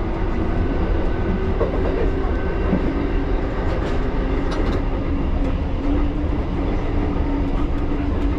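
1938 Tube Stock underground train running on the rails: a continuous deep rumble of wheels and running gear with a steady motor whine that drops in pitch about three seconds in, and light clicks from the track.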